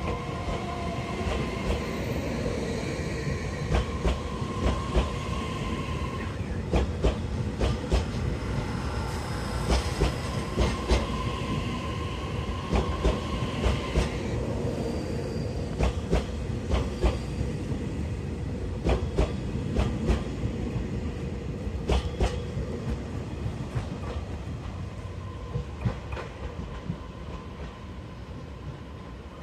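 EMU3000 electric multiple unit pulling out of the station and rolling past at low speed: a steady rumble with shifting whining tones, and its wheels clacking over rail joints in quick pairs as each car goes by. The clacks thin out and the sound fades near the end as the train leaves.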